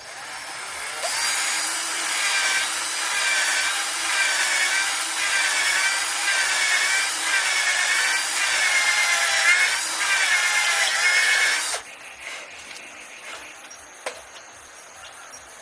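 Hand saw cutting through wood in steady back-and-forth strokes, a rasping sound with a wavering squeal on each stroke; it stops abruptly about twelve seconds in.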